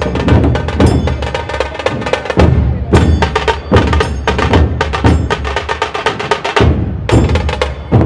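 Dhol tasha ensemble playing: large barrel dhol drums beating a heavy low rhythm under fast, sharp strokes of tasha drums.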